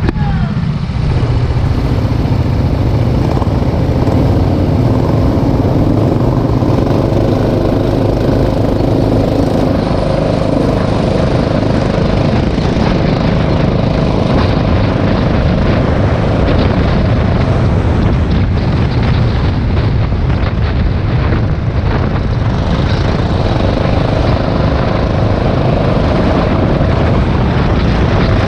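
Rental go-kart engine running continuously as the kart laps the track.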